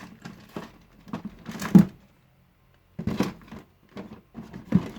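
Rummaging through a box of car parts: rustling packaging and irregular knocks of parts being handled, with the loudest knock about two seconds in and another sharp one near the end.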